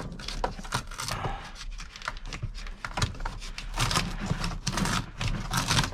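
Irregular rustling, scraping and light knocking as a piece of car floor carpet, glued down, is tugged and handled, busier in the second half.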